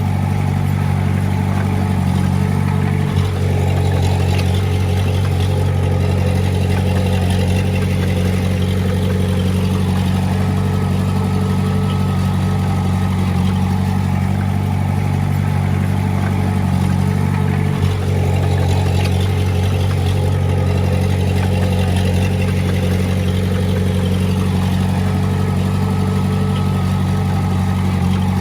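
Heavy-equipment diesel engine running steadily at a constant speed, with two short clicks about three seconds in and again near eighteen seconds.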